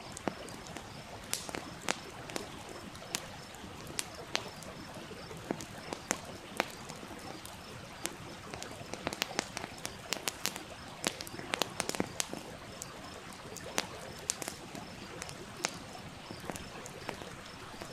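Wood campfire crackling with frequent irregular sharp pops and snaps, over the steady rush of a stream.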